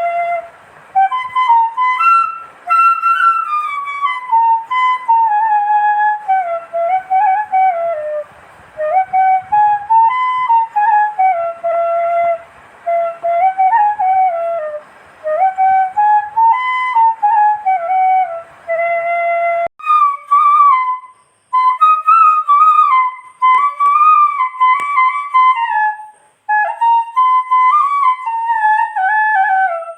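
Background music: a solo flute playing a slow, winding melody in short phrases, with an abrupt edit to a new passage about two-thirds of the way through.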